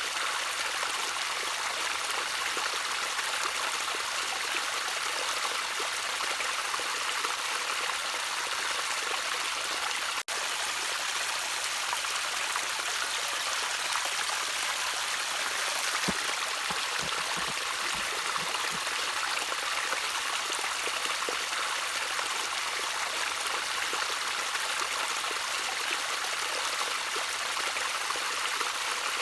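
Small stream of water trickling steadily over stones, a constant bright splashing hiss with a few deeper burbles a little past the middle.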